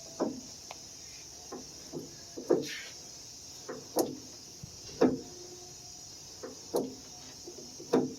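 Acura Legend door check (door stop), its spring-and-ball detent freshly greased, clicking softly as the door is swung back and forth, a short click or knock every second or so, often in pairs. The popping noise caused by dried-out grease in the detent is gone; the door is much quieter.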